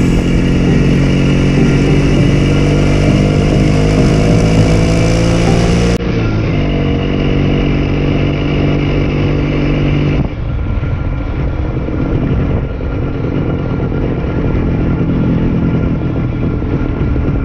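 A vintage ČZ motorcycle's single-cylinder two-stroke engine, heard from the rider's seat as it rides along, its pitch rising as it pulls away and then holding steady. About ten seconds in, the engine note drops back and a steady rush of wind and road noise takes over.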